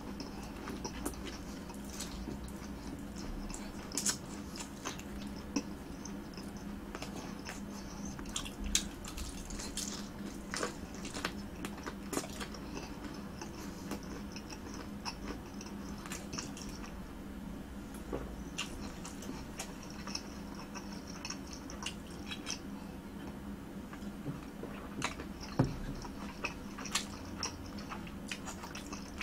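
Close-miked chewing of a breadcrumb-coated fried snack, with irregular wet mouth clicks and small crunches.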